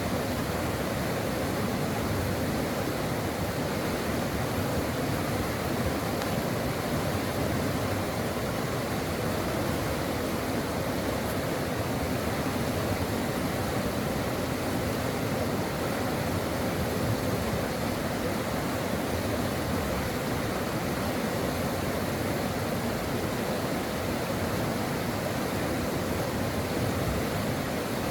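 A brook flowing in a steady, unbroken rush of water.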